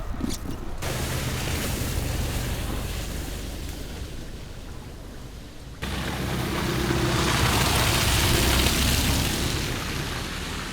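Steady rushing storm noise, wind and water, with low buffeting, changing abruptly twice where the footage is cut and swelling louder after the second change.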